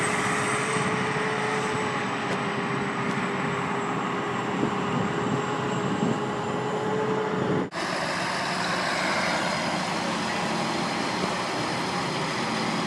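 Tractor engine running steadily, with a sudden break a little past halfway where another similar steady engine sound takes over.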